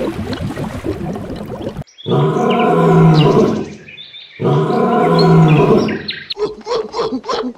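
An animal calling: a rough, grating stretch, then two long, loud, deep calls of about a second and a half each, followed near the end by a run of short, quick calls.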